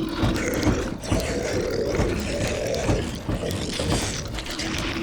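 Zombie moans and growls, drawn-out and wavering, one after another and overlapping, over a steady hiss of rain.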